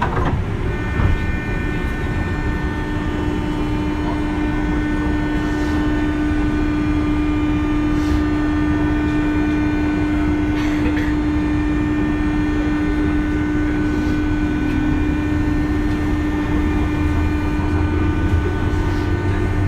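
JR 201 series electric train running on the rails. A steady fixed-pitch hum from its thyristor chopper control starts about a second in and fades near the end, with a thin high whine above it and occasional clicks from the wheels over rail joints.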